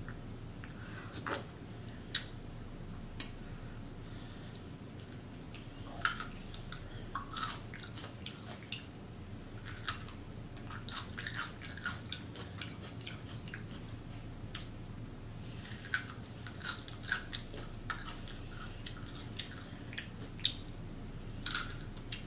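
Close-miked eating of a sauced seafood boil: wet chewing, lip smacks and sharp mouth clicks that come in irregular clusters, with quieter stretches between them.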